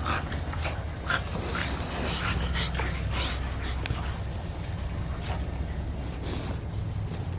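Dog whimpering and yipping in short high calls during the first few seconds, over a steady low hum.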